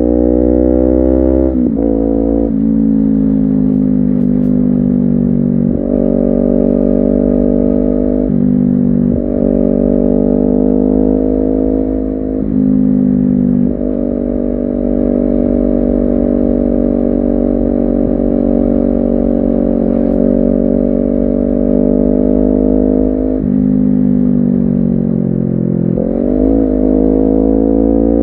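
Honda CBR250RR parallel-twin engine and exhaust under way: the pitch climbs with each gear and drops abruptly at the upshifts several times, then settles into a steady cruise. It drops again about two-thirds of the way through and wavers up and down near the end, as on throttle blips while downshifting.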